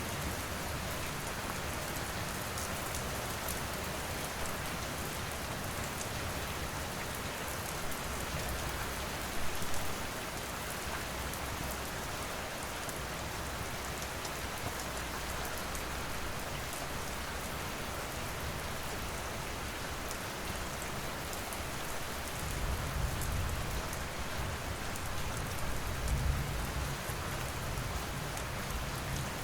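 Steady rain falling, with scattered small crackles from a wood fire. A low rumble swells up about three-quarters of the way through.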